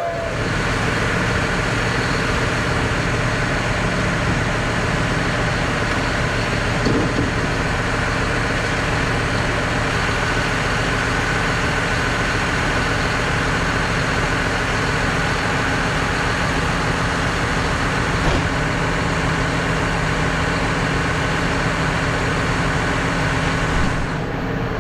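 Steady idle of a tractor's diesel engine, the John Deere 6215R's six-cylinder, running evenly without change in speed.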